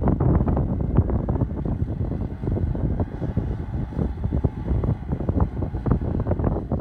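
Tractor diesel engine running steadily under a low rumble, with gusts of wind buffeting the microphone.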